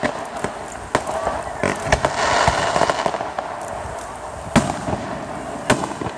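Fireworks going off: a string of sharp bangs, with a crackling hiss from about two seconds in, and two loud single bangs near the end.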